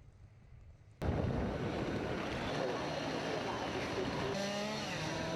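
Road traffic in snow: a low rumble, then an abrupt cut about a second in to a loud, steady rushing of tyres on a slushy road, with wind on the microphone. A pitched tone joins near the end.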